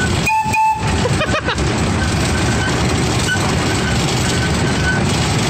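Miniature amusement-park train running along its track, a steady loud rumble heard from just behind the driver's seat. A short high tone sounds in the first second, and a faint thin high squeal comes and goes later on.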